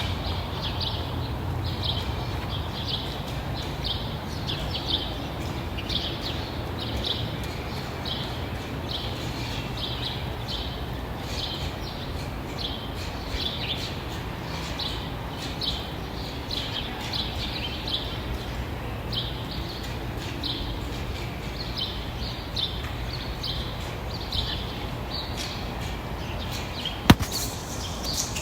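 Birds chirping: short high calls repeated about once or twice a second throughout, over a steady low rumble. A single sharp click sounds near the end.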